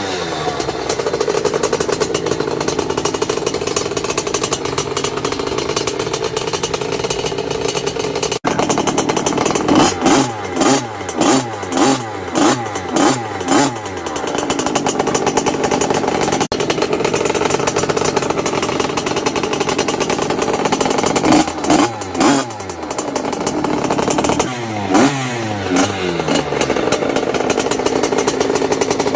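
Lem Motor XXL pit bike's 50cc two-stroke engine running, with steady stretches broken by series of quick throttle blips, each rev rising and falling back about twice a second.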